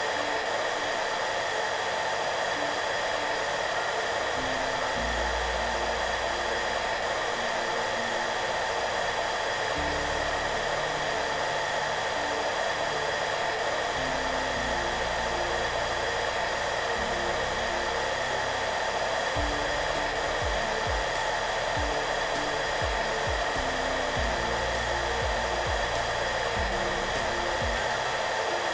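Hair dryer running steadily with a constant airy hiss and a faint motor whine, mixed with soft background music whose low notes shift underneath.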